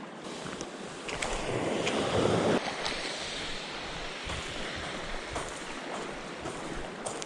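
Small waves washing onto a beach, one swelling louder about two seconds in.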